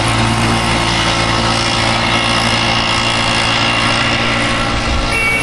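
Motorcycle engine idling steadily, a constant low hum with no change in pace.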